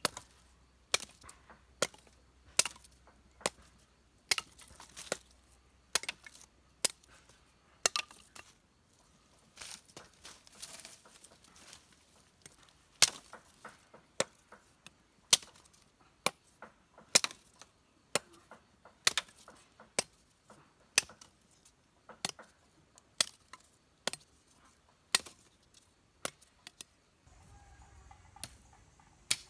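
Sharp chopping strikes, a blade cutting into wood or stems, repeating irregularly about one to two times a second, lighter for a few seconds about a third of the way in.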